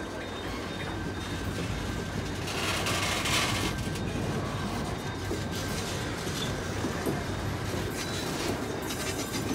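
Coal train's hopper wagons rolling past on the rails, a steady rumble of wheels over the track, with a brief louder, brighter rush about three seconds in.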